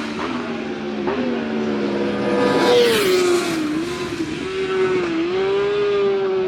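Superbike engines running hard on a race track, their pitch stepping and gliding with throttle and gear changes. About three seconds in, the pitch drops sharply, as when a bike passes close by.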